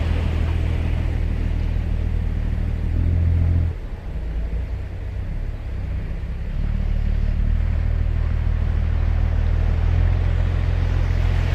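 Ocean surf washing on a sandy beach under a heavy low rumble. The rumble drops away about four seconds in and builds back up over the next few seconds.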